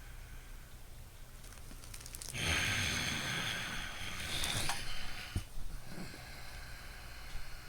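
A person breathing loudly through the nose: one long, rushing breath lasting about two and a half seconds, starting a little over two seconds in after a quieter stretch. There is a short sharp click about five seconds in.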